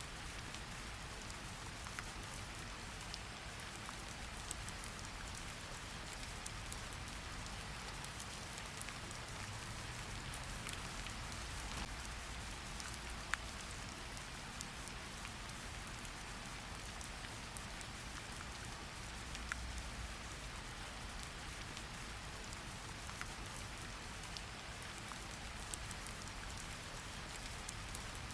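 Steady rain falling, an even hiss with scattered individual drop ticks and a faint low rumble underneath.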